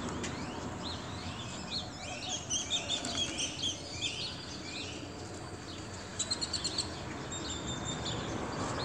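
A small bird chirping: a run of quick rising chirps for a few seconds, then a short fast trill of high notes, over a steady background hiss.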